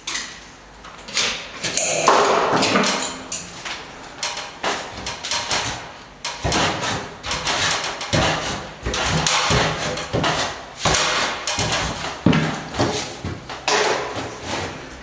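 Irregular knocking and rasping strokes as a hole is cut through old lath-and-plaster ceiling laths with a small hand saw, busiest from about six seconds in.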